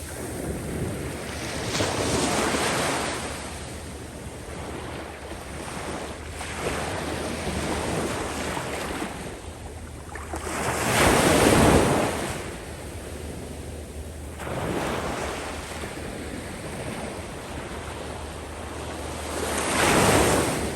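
Sea waves washing up and back over a sand beach, coming in slow surges of hiss. The loudest wash comes about halfway through, with smaller ones near the start and near the end.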